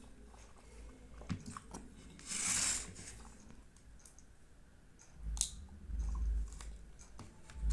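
A person chewing soft, syrupy Indian sweets close to the microphone, with small wet mouth clicks. There is a short hiss about two and a half seconds in and a sharp click a little after halfway. Low thumps follow near the end.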